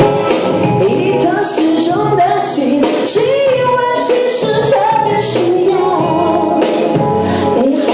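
A woman singing a pop melody over musical accompaniment.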